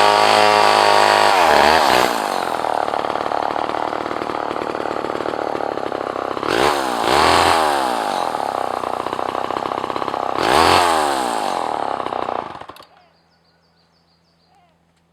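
Two-stroke chainsaw running at high revs, dropping to idle about two seconds in. It is blipped up twice more, around seven and eleven seconds in, then shut off about thirteen seconds in.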